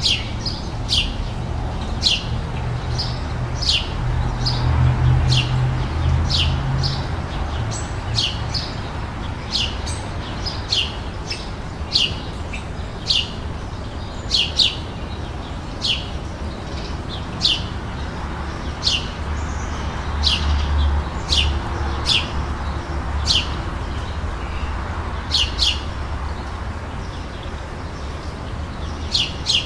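A small songbird chirping, each chirp a short sharp note sweeping down in pitch, repeated about once a second and now and then doubled. A steady low rumble runs underneath.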